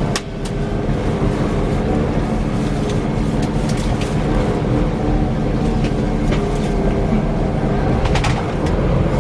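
Scania K340 coach's nine-litre five-cylinder diesel running, a steady low drone with a whirring whine on top, and a few brief rattles and clicks.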